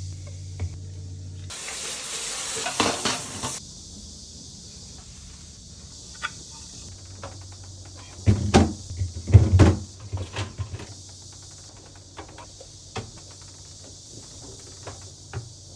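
Knocks, clicks and clatter of items being handled while a refrigerator is cleaned out, with a hissing burst about two seconds in and a few louder thumps about halfway through.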